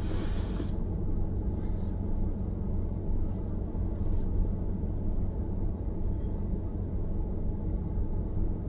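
Steady low rumble of a car driving, road and engine noise, with a brief hiss near the start and a few fainter hisses after it.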